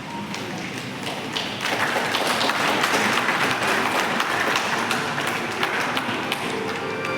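An audience applauding, starting about one and a half seconds in and going on steadily.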